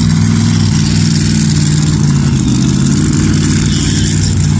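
Large tractor engine running steadily at a constant speed, with a slight wavering in pitch about halfway through.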